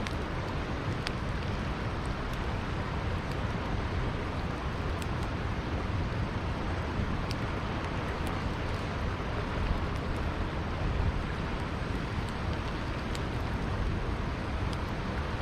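Campfire crackling: scattered sharp pops and snaps over a steady low rushing noise.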